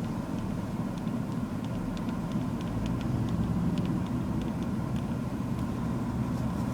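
Steady rumble of a car driving, engine and road noise heard from inside the cabin.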